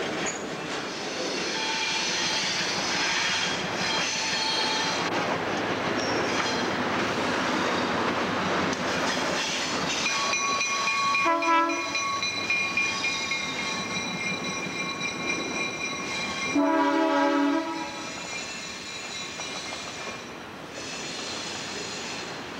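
Freight train rolling slowly on the track, with high-pitched wheel squeal. A diesel locomotive horn gives a short blast about halfway through and a longer blast of about a second a few seconds later.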